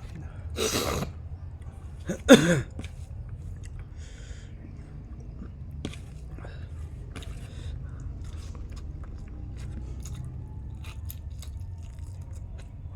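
A person eating close to the microphone, with wet chewing and small mouth clicks. Two short, loud vocal sounds come in the first three seconds, the second the louder.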